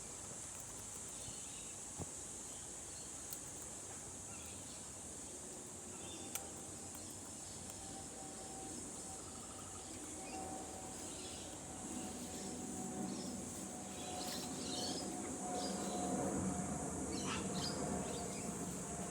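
A steady high-pitched insect drone with scattered short bird chirps. From about halfway through, a low hum grows steadily louder.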